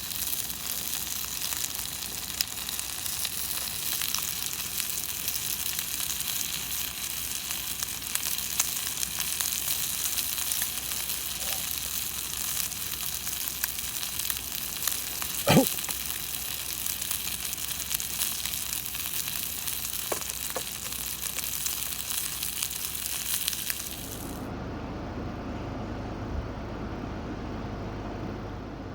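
Food sizzling and crackling in a hot pan, a steady fine crackle with one sharp clink about halfway through. Near the end the sizzle gives way abruptly to a duller, lower steady rumble.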